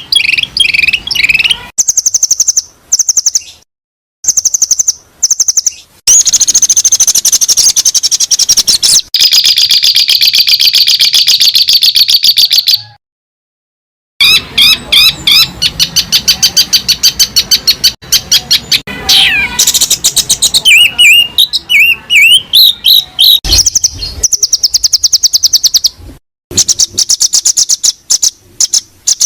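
Songbird song: fast, high chirping trills and rapid repeated notes with some sliding whistles, broken by a few brief silences where recordings are spliced together.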